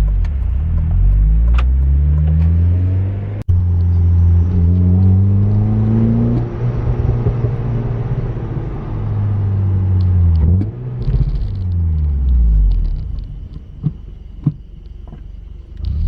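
2006 Honda Civic's four-cylinder engine, breathing through a Vibrant cat-back exhaust and K&N short ram intake, revs climbing as the car accelerates. There is a sharp break about three and a half seconds in; then the revs climb again and hold steady. About ten seconds in they fall away to a low rumble as the car slows.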